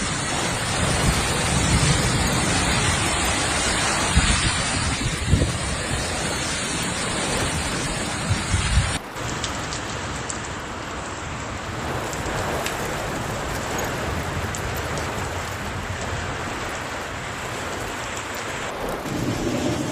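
Hailstorm: a dense, steady clatter of hail and heavy rain pelting surfaces, with a few louder knocks in the first half. About nine seconds in it cuts to another recording of the same downpour, slightly quieter.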